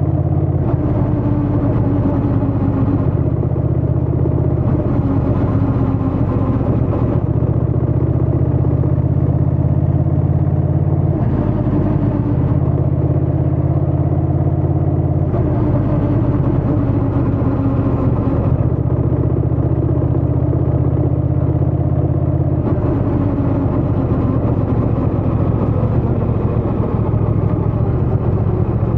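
Honda Rebel 1100 DCT's parallel-twin engine and exhaust under way, running steadily. The note swells and eases every few seconds as the throttle opens and closes.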